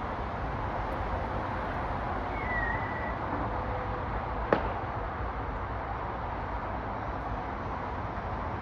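Steady outdoor background noise, broken by a single sharp bang about four and a half seconds in. A short high bird call comes about two and a half seconds in.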